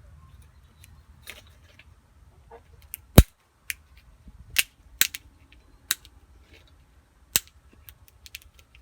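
Wire cutters snipping through plastic wire loom: a series of sharp snaps at uneven intervals, the loudest about three seconds in.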